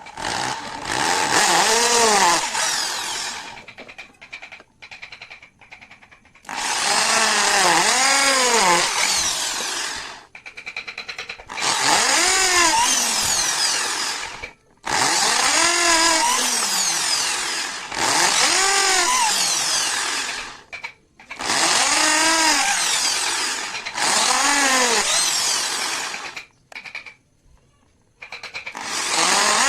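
Electric drill run in repeated bursts of about three seconds, roughly eight times, its motor whine rising and falling in pitch with each run, with short pauses between.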